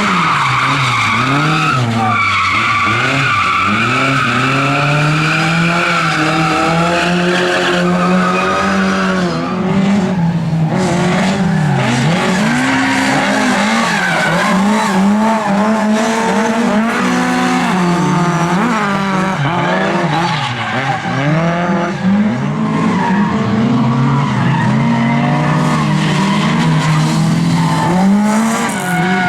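Lada race car engines revving hard and dropping back again and again as the cars lap the circuit. Tyres squeal steadily through roughly the first seven seconds.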